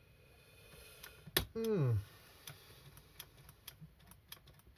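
A few light clicks and taps, as of small chainsaw parts and tools being handled on a bench, with one sharper click about one and a half seconds in. Just after the sharper click comes a short falling hum of a voice.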